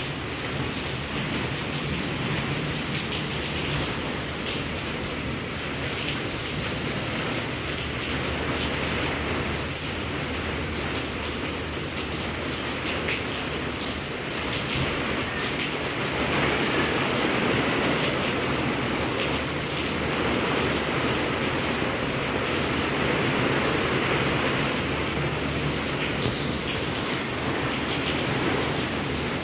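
Steady rain falling, an even patter that gets a little heavier about halfway through.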